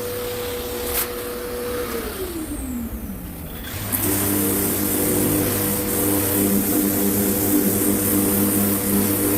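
A small motor-driven tool running steadily, switched off about two seconds in so its pitch falls as it spins down, then started again about four seconds in and back up to speed.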